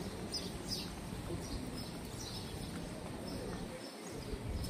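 Small birds chirping, short high chirps repeated every fraction of a second, over a steady background noise.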